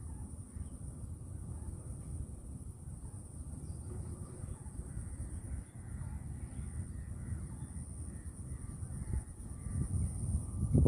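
Birds calling outdoors, repeated short calls over a steady high-pitched whine and a low rumble that grows louder near the end.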